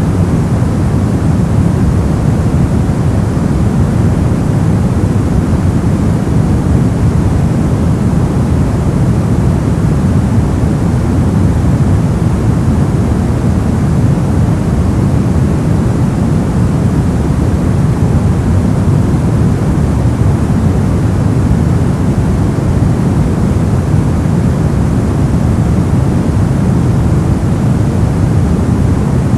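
Brown noise: a steady, deep rumbling hiss, strongest in the bass and fading toward the treble, unchanging throughout.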